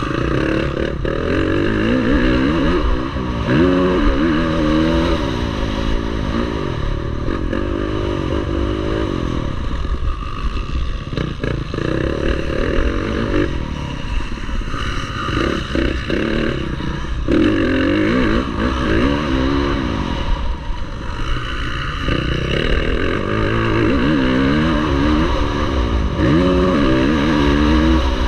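Motocross bikes racing, their engines revving up and falling back over and over as the riders open and close the throttle and shift through the gears.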